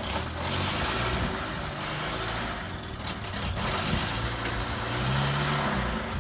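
Van engine running at a low idle, with a slight rise and fall in revs about five seconds in, over a noisy hiss.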